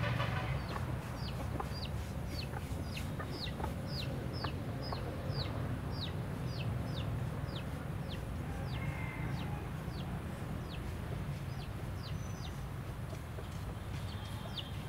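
A small bird calling over and over: short high notes that slide downward, two to three a second, growing sparser after about ten seconds. A steady low rumble runs underneath.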